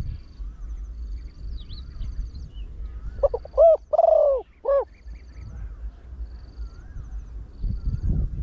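Spotted dove cooing one four-note phrase about halfway through: two short notes, a long drawn-out note, then a short closing note. Faint chirps of small birds and a low rumble sit underneath.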